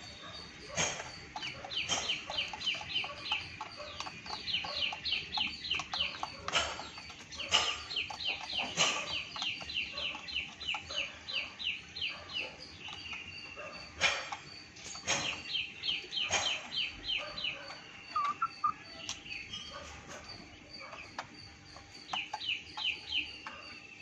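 Birds chirping in quick runs of short, high notes, about ten a second, over and over, with scattered sharp taps.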